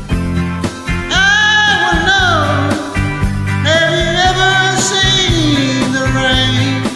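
Karaoke singing over a country-rock backing track with guitar and a steady drum beat: the voice holds two long notes with vibrato, starting about a second in and again about halfway through.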